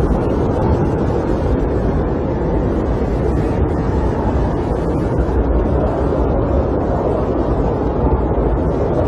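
Snowstorm wind buffeting a camper, heard from inside as a steady, deep rushing noise with no separate knocks or gusts.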